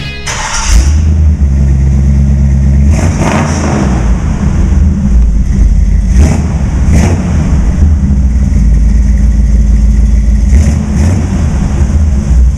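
Chevy 350 small-block V8 running loud through its aftermarket exhaust with a deep rumble, revved in several surges.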